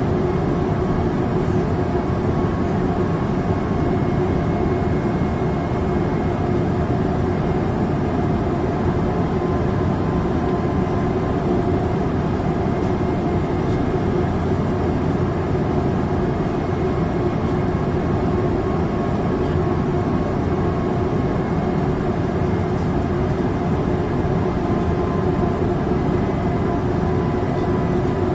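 Steady cabin noise inside a Boeing 787-8 Dreamliner: a constant rush of engine and airflow noise, heaviest in the low end, with a few steady hum tones over it and no sudden events.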